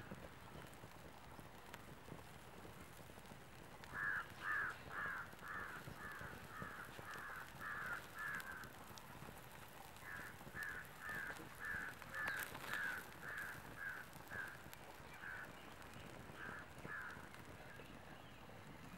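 A bird calling in two long runs of short repeated notes, about two calls a second, the first run starting about four seconds in and the second about ten seconds in.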